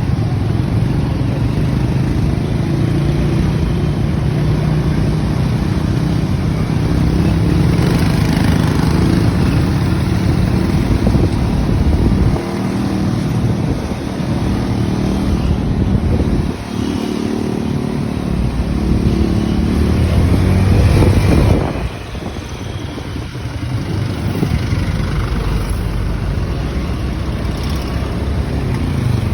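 Motorcycle engine running on the move, over a rushing noise of wind and road. The engine note drops back a few times, about 12, 16 and 22 seconds in, then picks up again.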